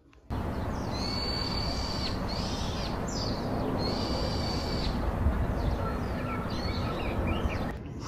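Birds calling outdoors over a steady rushing background noise: two long, level whistled calls about a second each, with several shorter chirps between them. The sound starts suddenly just after the start and stops shortly before the end.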